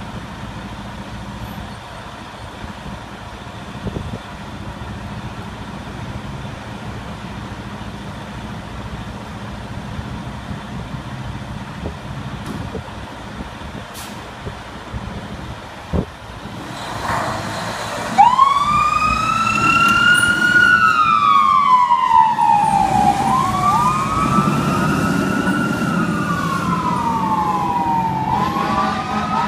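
Traffic rumble, then about two-thirds of the way in a fire engine's siren comes on loud, wailing slowly up and down, with a second siren tone overlapping it a few seconds later.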